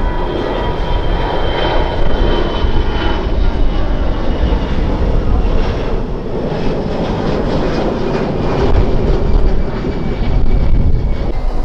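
Jet airliner passing close by, its engines making a loud, steady rumble with a faint high whine that slowly falls in pitch.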